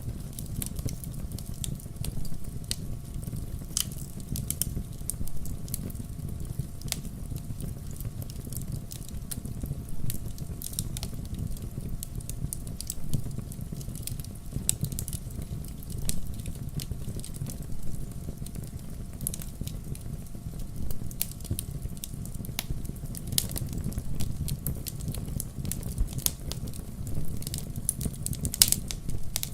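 Wood logs burning in a fireplace: a steady low rumble of flames with frequent irregular crackles and pops, a few sharper pops near the end.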